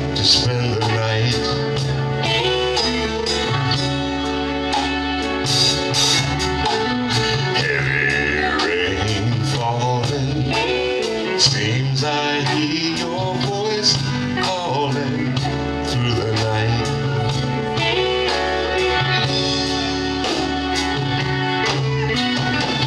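A live band playing a slow soul ballad, with a bass line moving in long held notes under guitar.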